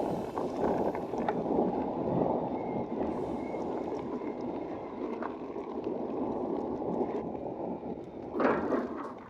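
Hardtail e-bike tyres rolling over a coarse gravel trail, a steady crunching rush, with a louder surge about eight and a half seconds in.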